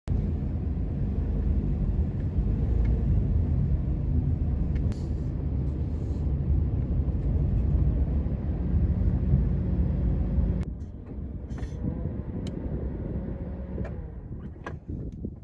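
Steady low rumble of a moving vehicle, typical of road noise heard while driving. About ten seconds in it drops sharply, leaving a quieter hum and a few sharp clicks.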